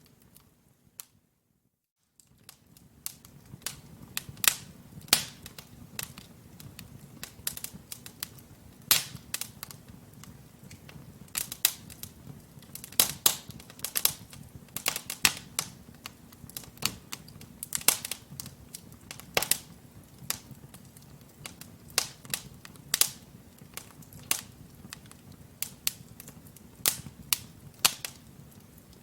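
Wood fire of burning logs crackling in a fireplace: irregular sharp pops and snaps over a low, steady rumble of flame. The sound drops out to silence for about a second and a half near the start.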